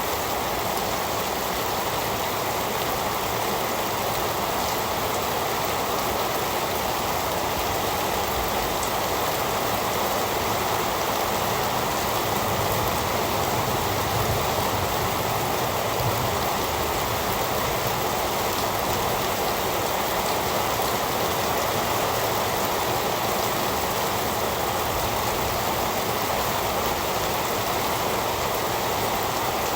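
Heavy rain falling steadily, an even hiss of water with no let-up and no thunder.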